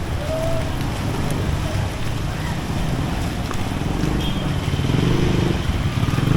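Rainy city street: steady rain hiss with a vehicle engine running close by, its low rumble growing louder in the last couple of seconds.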